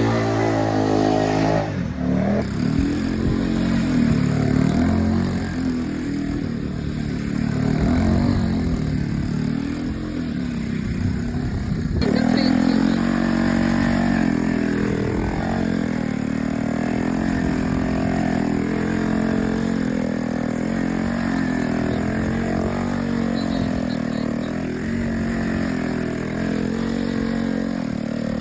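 Honda ATC three-wheeler's engine running under riding load, its pitch repeatedly rising and falling as the throttle is blipped and eased while sliding in snow.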